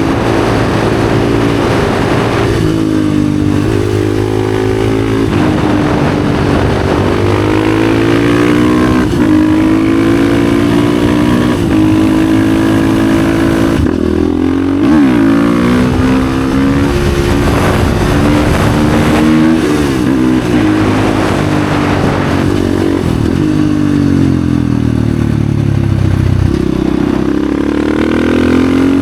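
Husqvarna FE 450 enduro motorcycle's single-cylinder four-stroke engine through an FMF exhaust, ridden hard. The revs climb and fall again and again, with sharp drops several times.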